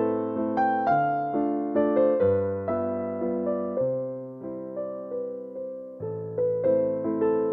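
Background music: gentle piano or electric piano playing slow chords over a bass line, each note struck and then fading.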